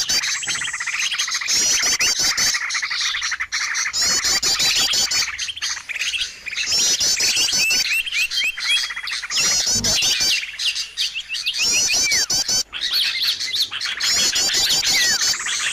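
Many small songbirds chirping continuously, with short, fast, high-pitched trilled phrases repeated every couple of seconds over a busy background of chirps.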